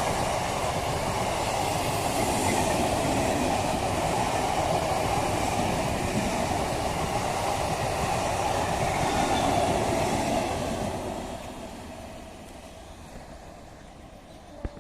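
An EMU local train runs through the station without stopping, a steady rush of wheels and motors close by. About eleven seconds in, it fades away as the train moves off.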